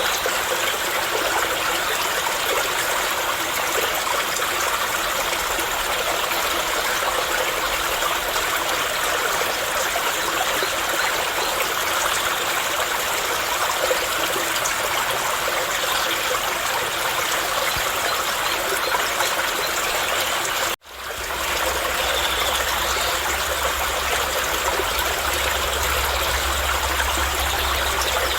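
Running water flowing steadily, like a stream. About three-quarters of the way through it cuts out for an instant, then resumes with a low hum underneath.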